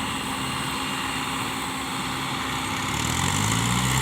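Tractor's diesel engine running steadily, its revs rising about three seconds in.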